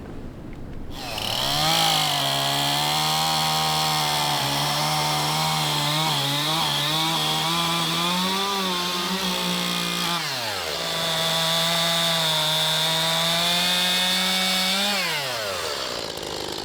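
Chainsaw with a new chain revving up and running hard as it cuts through old, dry seasoned oak. It eases off about ten seconds in, runs up again for a second stretch, and drops back near the end.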